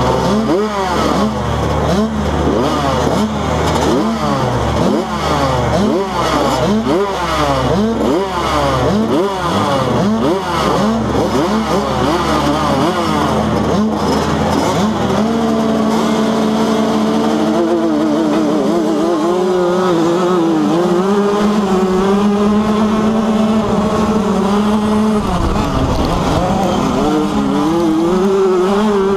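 Several motocross dirt bikes racing, their engines repeatedly revving up and dropping back as riders accelerate and shift. About halfway through, the engine notes become steadier, with a held pitch that wavers.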